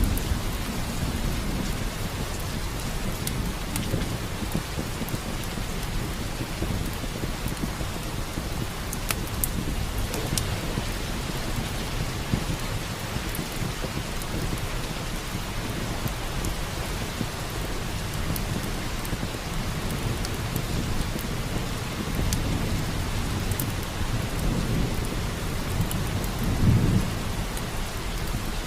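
Steady rain with low rolls of thunder, the loudest rumble near the end. Scattered sharp crackles from a wood fire in a fireplace.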